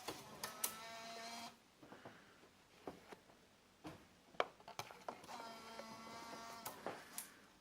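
Faint whirring of a small motor in an Alpine 7990 car CD head unit's mechanism, twice: about a second and a half near the start and again for about two seconds near the end, with a faint whine in it. Scattered light clicks fall between the two runs.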